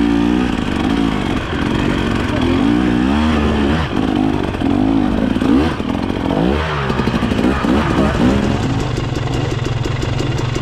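Dirt bike engine revving up and down over and over as the rider throttles through a rough, rocky section. Near the end it settles to a steadier, lower note.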